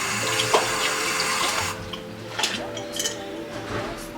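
Water running from a tap into a sink, shut off a little under two seconds in, followed by a few light clinks.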